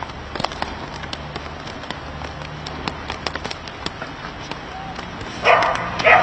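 A dog barks twice near the end, over a steady spatter of sharp irregular ticks and a low rumble.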